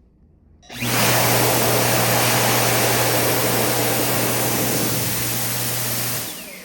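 Dyson Airblade V hand dryer switching on abruptly about a second in and blowing a steady rush of air with a motor hum for about five seconds. It then shuts off, and its motor spins down with a falling whine.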